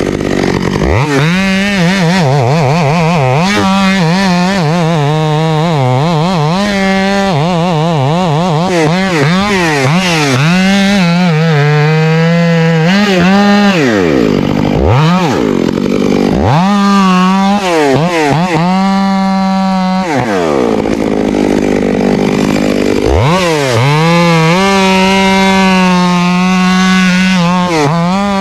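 Chainsaw running at high revs, its pitch wavering up and down. Around the middle it drops off toward idle three times, and each time it revs back up.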